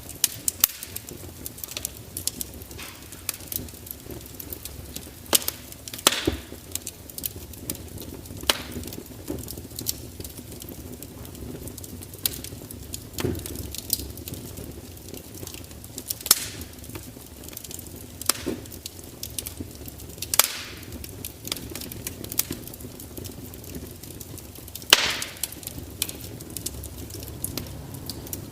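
Fire crackling: a steady low hiss with many small irregular crackles and, every few seconds, a louder sharp pop.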